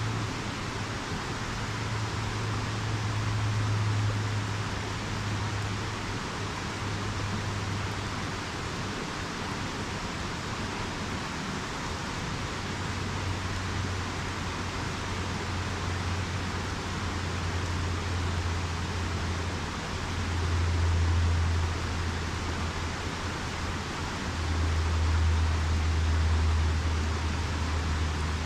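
River water rushing steadily, with a low rumble underneath that swells and fades every few seconds.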